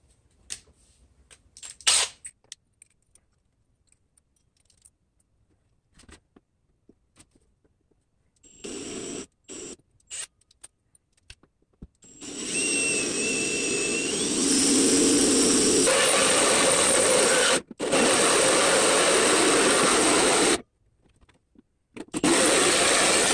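Electric drill boring a hole through a sheet-metal license plate. It starts with a few short trigger bursts, then runs steadily under load for about eight seconds with one momentary break, and ends with another short burst. The rough cut and burr point to a dull bit, which the driller thinks may need replacing.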